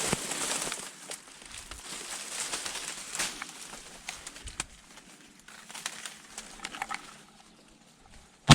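Quiet waiting with light rustling and faint clicks, then a single loud shotgun shot just before the end.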